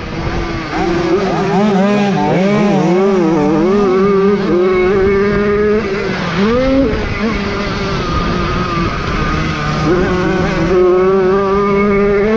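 Small single-cylinder 50 cc two-stroke Jawa motorcycle engines racing at high revs. One note holds steady while another rises and falls with the throttle, with a sharp rev-up about six and a half seconds in.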